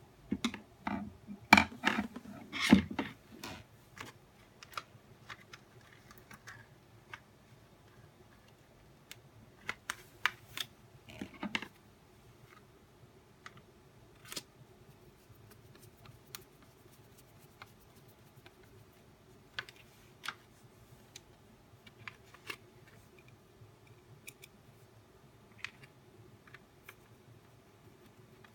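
Plastic parts of a nail dust collector being handled and fitted during disassembly or assembly: scattered clicks and knocks, a quick flurry in the first few seconds and another about ten seconds in, with single ticks between.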